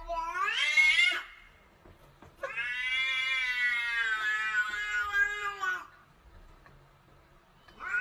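Cat meowing: a call rising in pitch that ends about a second in, then one long drawn-out yowl lasting about three seconds.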